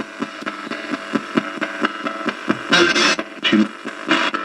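Ghost box radio sweeping through stations: choppy static and snatches of radio through a small speaker, with short louder bursts about three seconds in and again near the end.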